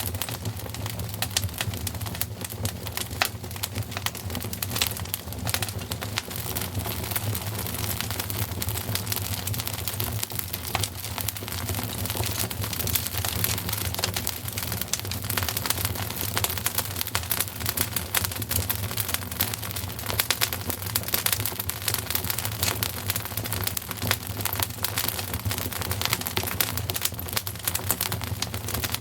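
Wood fire crackling in a fireplace: a dense, unbroken run of small pops and snaps over a steady low rumble.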